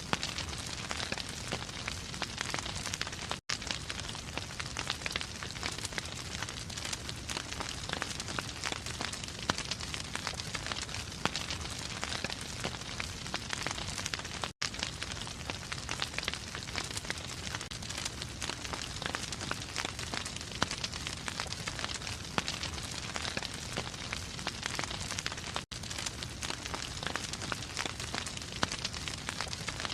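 Wood fire in a fireplace crackling and popping steadily, with a momentary gap roughly every eleven seconds.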